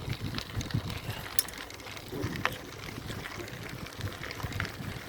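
Bicycle being ridden over a rough track: uneven low rumble of wind and tyres on the microphone, with scattered sharp clicks and rattles from the bike.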